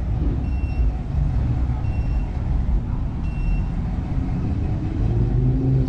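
Low rumble of vehicle engines, with a short high beep repeating three times about every second and a half, and an engine rising in pitch near the end.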